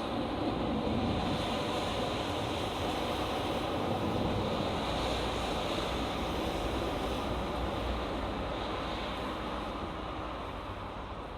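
Road traffic on a main highway: vehicles passing in a steady rush of tyre and engine noise that eases slightly toward the end.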